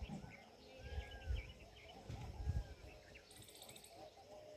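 Faint birds calling: quick chirps and a few arched whistled notes. Dull low rumbles come and go underneath, the strongest about a second in and again around two and a half seconds in.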